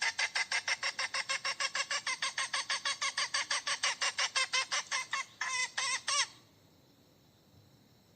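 Hen cackling: a fast, even run of short clucks, about six a second, ending in three longer drawn-out calls around six seconds in, then it stops.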